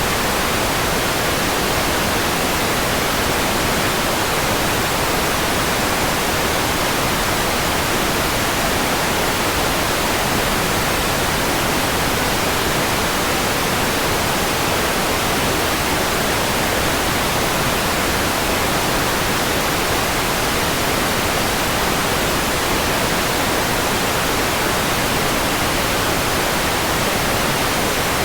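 Steady electronically generated white noise, an even hiss across all pitches that does not change.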